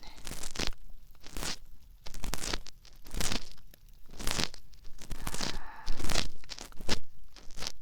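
Ear-cleaning ASMR on a binaural dummy-head microphone: an ear pick scraping inside the ear in slow, irregular strokes about once a second, close and crackly.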